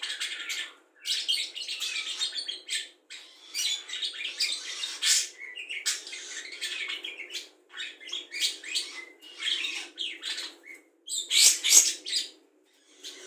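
Budgerigar singing a rapid chattering warble of chirps and trills, laced with songs it has learned from other songbirds. It comes in phrases broken by short pauses, and is loudest near the end.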